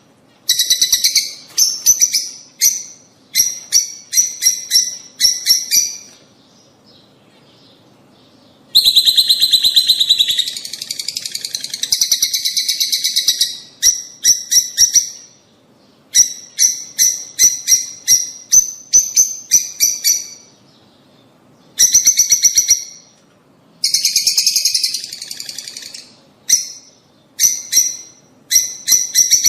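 Lovebirds chattering: runs of sharp, high chirps in quick groups, broken by two long rapid buzzing trills, from a call recording meant to encourage lovebirds to breed.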